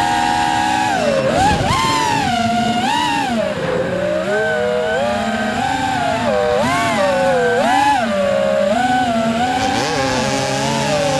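Motocross dirt bike engine revving hard, its pitch rising and falling over and over, about once a second, as the throttle opens and closes.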